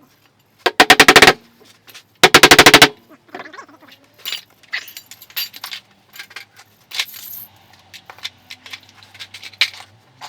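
Two loud bursts of rapid repeated impacts on metal, about fifteen a second and each well under a second long, followed by scattered light clicks and taps.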